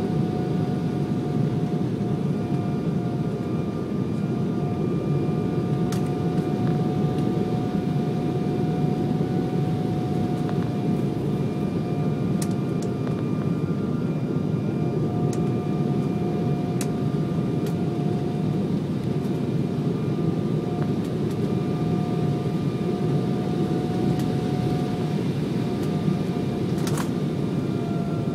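Airliner cabin noise: the jet engines and airflow make a steady deep rush with a thin steady whine over it.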